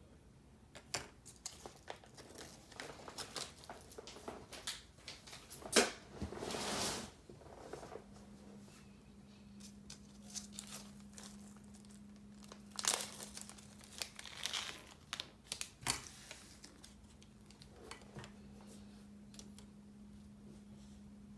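Packaging being handled and opened: plastic and paper crinkling with scattered clicks and rustles, and a longer tearing rustle about six seconds in. A faint steady low hum sets in partway through.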